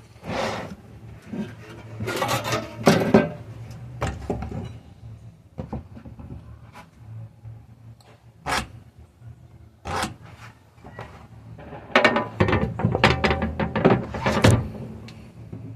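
Wooden pieces being handled: irregular knocks and scrapes of wood against wood, in two busier bursts, one near the start and one near the end.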